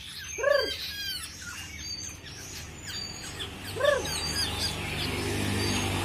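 Birds chirping in short high notes, with two louder, arched single calls about half a second and four seconds in. A low rumble builds in the background near the end.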